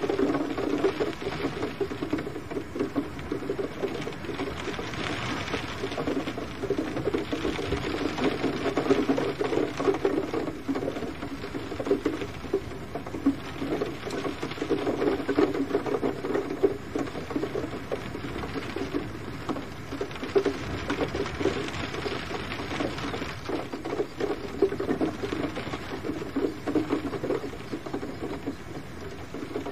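Steady rain pattering on a surface: a dense, rapid ticking of drops that swells and eases every few seconds.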